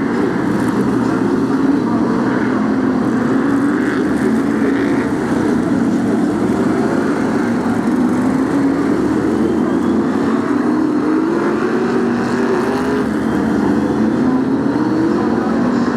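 A pack of BriSCA F1 stock cars racing, their V8 engines running steadily together, the engine pitch rising and falling as the cars lap the oval.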